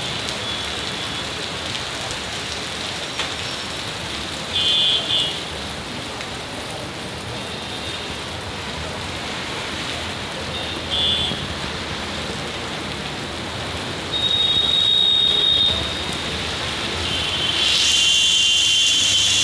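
Heavy rain falling steadily, with a few short high-pitched tones over it and a louder high tone with added hiss near the end.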